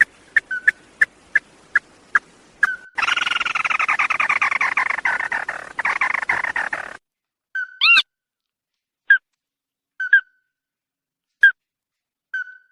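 Calls of the bird known in Vietnamese as 'chim mắt đỏ' (red-eyed bird). Rapid short sharp notes, then a fast rattling trill for about four seconds that falls slightly in pitch, then single short notes about a second apart.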